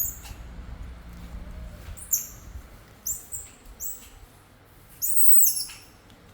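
Baby monkey squeaking in short, very high-pitched calls, several in a row, then a longer, louder squeal about five seconds in.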